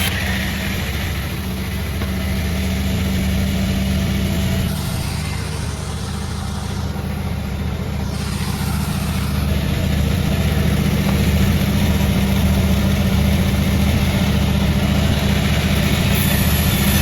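Sawmill machinery running steadily with a strong low hum, easing slightly around the middle and building again in the second half.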